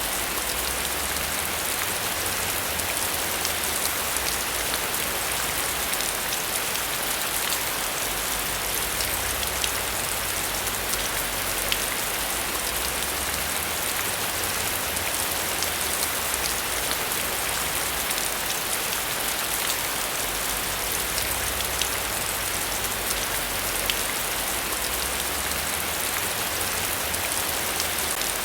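Steady heavy rain falling on surfaces, a dense even hiss speckled with countless drop impacts, over a low wavering rumble.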